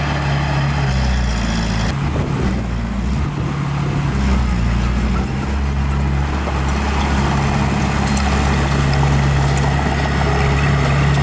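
Diesel engine of a small bulldozer running steadily. Its low note turns uneven for a few seconds, from about two seconds in, then settles again, with faint clanking near the end.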